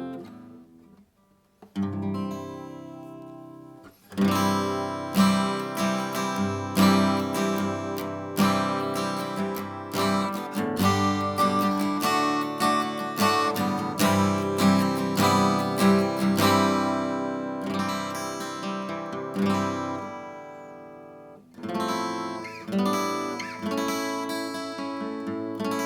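Steel-string acoustic guitar strummed in chords. A single chord rings out about two seconds in, then steady strumming starts at about four seconds. It stops briefly just after twenty seconds and starts again.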